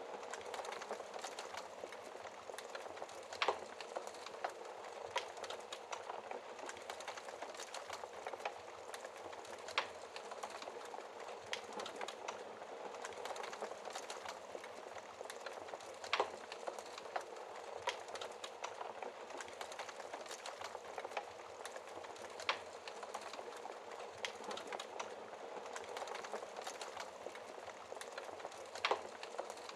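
Wood fire in a fireplace crackling: a steady hiss of burning with many small crackles and a few louder pops every six seconds or so.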